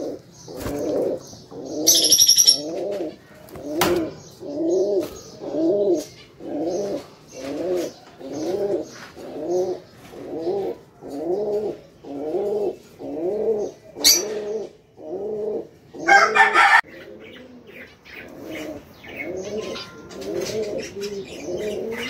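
Cage birds calling. A low, rising-and-falling call is repeated steadily about one and a half times a second, with high thin chirps of small birds over it and a loud harsh call about sixteen seconds in.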